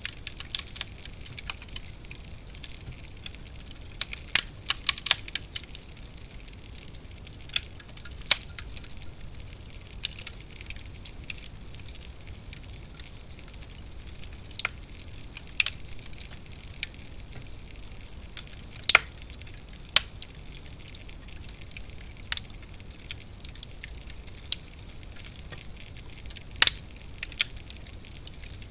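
Wood fire burning in a fireplace, with irregular sharp crackles and pops over a soft steady hiss. The pops come in a quick cluster a few seconds in, then single louder snaps every few seconds.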